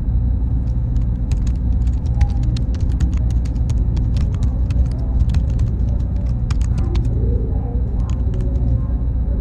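Computer-room ambience: a steady low machine hum with irregular, rapid clicking like keyboard typing over it, the clicks pausing briefly near the end.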